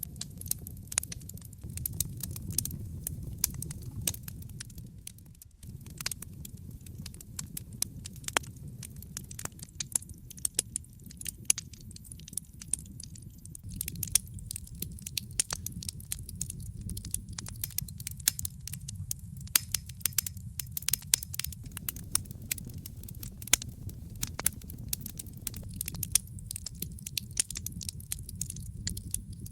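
Fire in a fireplace crackling: frequent, irregular sharp pops and snaps over a low steady rumble of the flames, with a brief lull about five seconds in.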